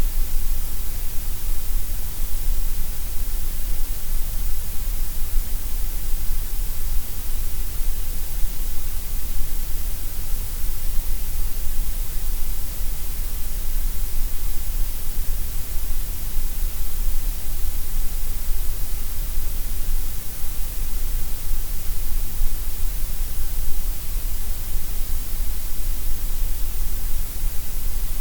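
Gray noise: a steady, even synthetic hiss with no change, strongest in the deep bass and the high treble, thinner through the middle.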